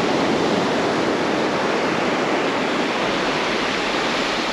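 Steady rushing noise of ocean surf washing onto a beach, without a break.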